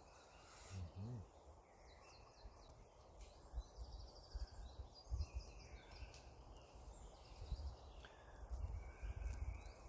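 Faint birdsong: short high chirps and trills in the middle of the stretch, over a low steady rumble of wind or handling noise on the microphone.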